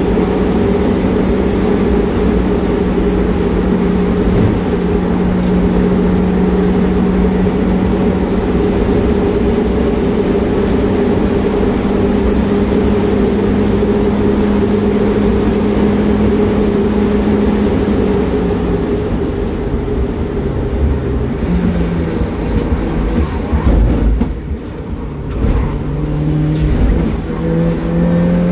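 Turbocharged Mazda MX-5's four-cylinder engine heard from inside the cabin, pulling hard at steady high revs for most of the time. About three-quarters through the note drops away and the sound dips briefly as the driver backs off, then the revs climb again near the end as it accelerates.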